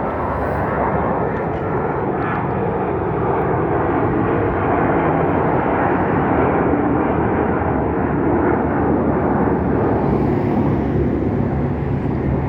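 Jet airliner engines roaring, a steady rush that swells a little over the first few seconds and then holds, typical of a jet on its takeoff run.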